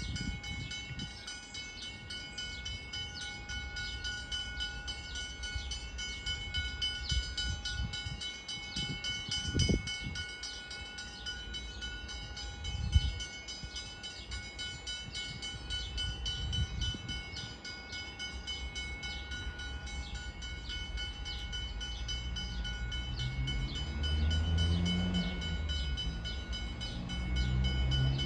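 Diesel train running at a station: several steady whining tones over a low rumble, with a couple of short knocks, and the engine note grows louder and rises near the end.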